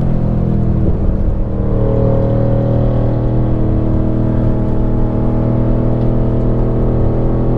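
Renntech-tuned Mercedes-AMG GT R Pro's twin-turbo V8 running at steady, moderate revs under light throttle, with no hard acceleration.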